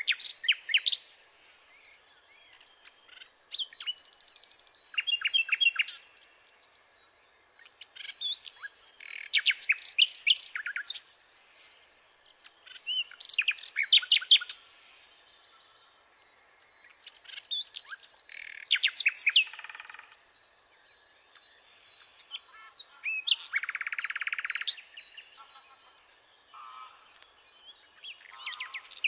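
A songbird singing in repeated bouts about every four to five seconds, each a second or two of quick chirps, trills and buzzy notes.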